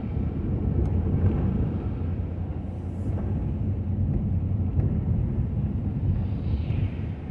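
Pickup truck driving on a road, heard as a steady low rumble of engine and road noise with a few faint ticks.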